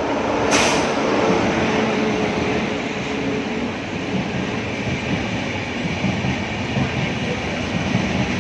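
Train running through a station: a steady loud rumble with wheels knocking over the rail joints. A short hiss comes about half a second in, and a steady hum fades out after a few seconds.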